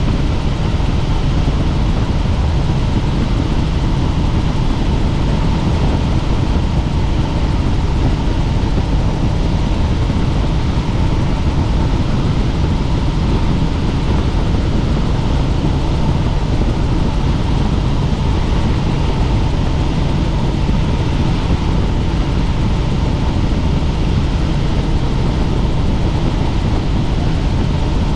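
Helicopter in flight: steady, loud rotor and engine noise with a faint steady whine above it.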